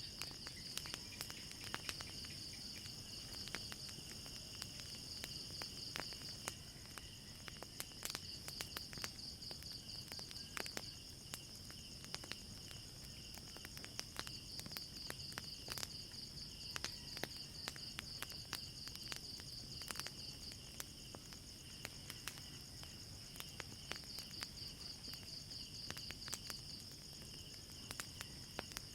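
Wood fire crackling with scattered sharp pops, over a steady high-pitched chorus of crickets chirping.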